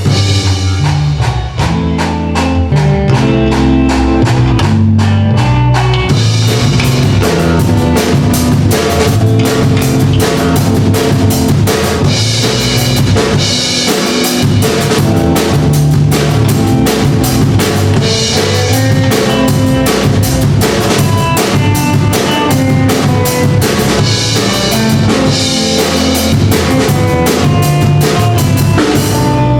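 Band music led by a drum kit, with bass drum and snare keeping a steady, fast beat under a bass line and melodic instruments; the sound fills out and brightens about six seconds in.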